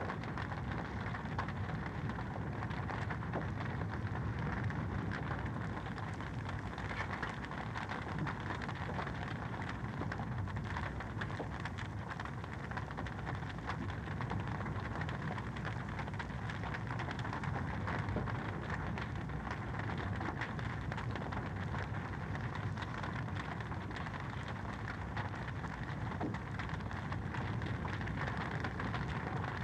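Fire in a fireplace crackling steadily: a dense run of small pops and snaps over a constant low rush.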